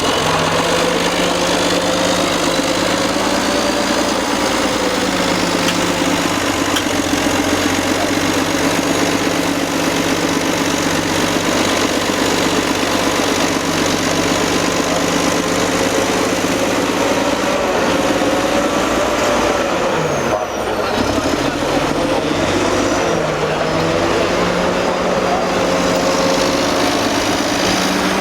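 Old Caterpillar D8 bulldozer's diesel engine running steadily while bulldozing, its pitch dipping briefly and recovering about twenty seconds in.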